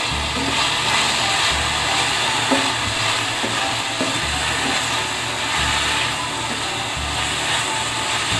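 Pork, garlic and onion sizzling in hot oil in a stainless steel pan, stirred with a spatula, with a few light clicks of the spatula against the pan. Background music plays under it.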